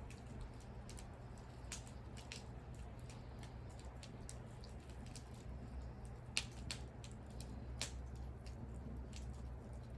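Wood fire crackling and popping, with irregular sharp snaps over a low steady rumble; the loudest pops come at about six and a half and eight seconds in.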